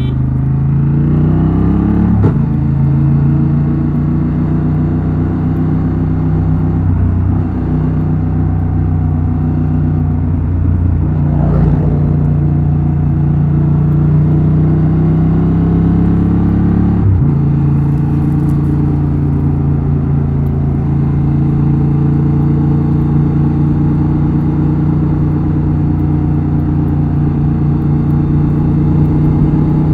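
Exhaust of a 2024 Honda Transalp XL750's 755 cc parallel-twin engine under way. It rises in pitch for the first two seconds, changes gear about two seconds in, and then holds a fairly steady note, with another brief break about 17 seconds in.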